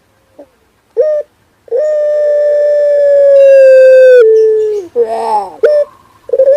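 Male puter pelung calling in song: a short note about a second in, then one long, loud, held call that drops in pitch at its end, a few short broken notes, and another long call beginning near the end.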